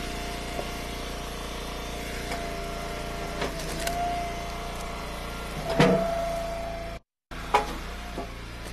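Eastonmade Ultra wood splitter running steadily, its note swelling twice under load, with sharp cracks of rounds splitting about three times. The audio drops out briefly about seven seconds in.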